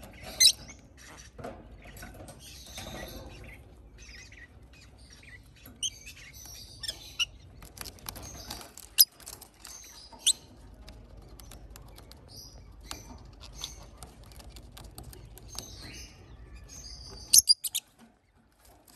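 Young parrot chicks chirping and squawking in short high calls on and off, with several sharp clicks or taps among them.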